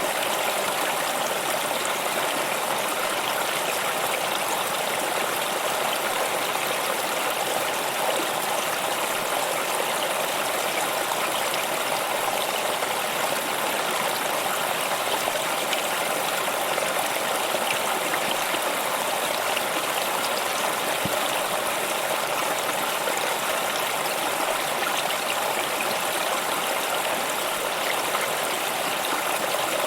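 Stream water flowing and babbling steadily over rocks, an even rushing with fine splashing detail.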